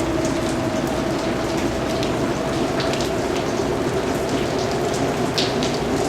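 Steady rain falling, with individual drops landing distinctly now and then over the even hiss. A faint steady low hum runs underneath.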